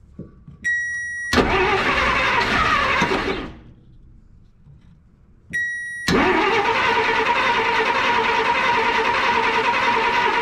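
1953 Plymouth Cranbrook's flathead six-cylinder engine cranking on the starter, trying to fire on fuel poured into the carburetor: a burst of about two seconds, then a longer one of about five seconds. Each is preceded by a short high beep.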